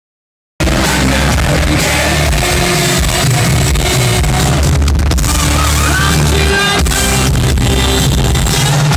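Live hard rock band, heavily distorted through a crowd recording: loud electric guitars, bass and drums with a singer's voice over them, starting abruptly about half a second in.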